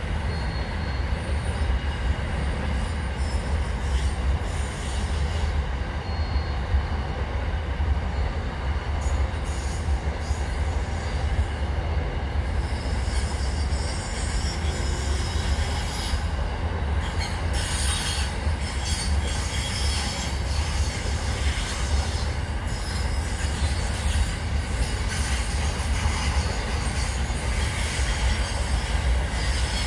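A passing train rumbling steadily, its wheels squealing on the rails, with the high-pitched squeal and hiss growing stronger from about halfway through.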